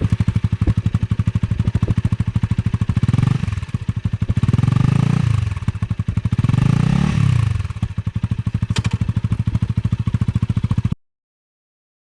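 Honda Rebel 250's single-cylinder engine idling just after starting, blipped up twice about three and six seconds in and falling back to idle each time. The sound cuts off suddenly about a second before the end.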